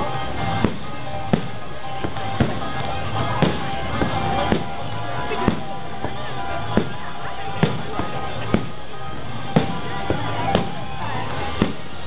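Aerial firework shells bursting in the sky, with sharp bangs about once a second, over music playing.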